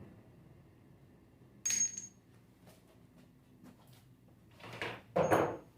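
Metal parts being set down on a hard work surface: two sharp metallic clinks, the second louder near the end, each with a brief high ring, with a few faint clicks in between.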